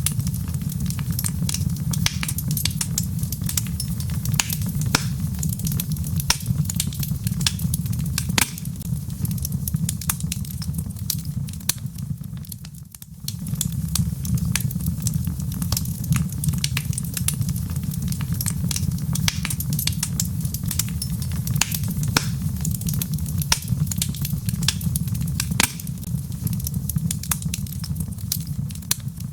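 Wood fire crackling in a fireplace: a steady low rumble of burning logs with frequent sharp pops and snaps, dipping briefly quieter about halfway through.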